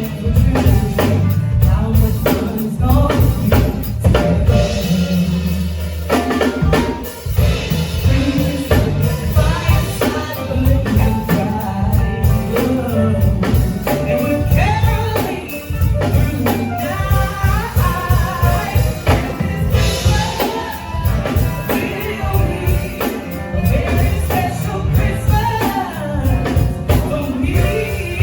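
Live band playing with a singer: a drum kit keeps a steady beat under the sung melody.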